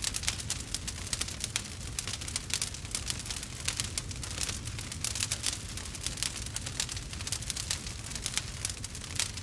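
Wood fire crackling in a fireplace: dense, irregular sharp pops and snaps over a low steady rumble of burning.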